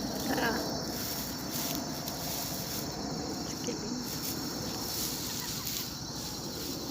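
Insects chirping steadily over an even outdoor background hiss.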